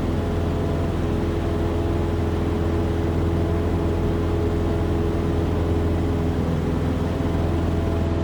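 Cessna's piston engine and propeller running steadily, heard inside the cabin, with no change in pitch. The engine is down on power, which the pilot puts down to carb ice or high density altitude.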